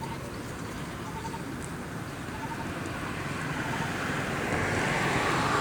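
A motor vehicle's engine running steadily, growing louder toward the end as it comes closer.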